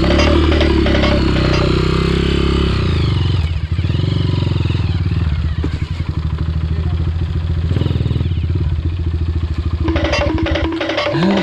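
Trail motorcycle engine running at low revs, with the revs dropping and picking up again about three seconds in. Background music with a beat plays over it at the start and near the end.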